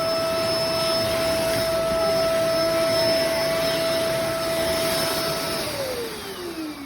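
Bissell MultiClean Allergen Pet upright vacuum running with a steady hum and rushing air. It is switched off near the end, and its motor winds down in a falling whine.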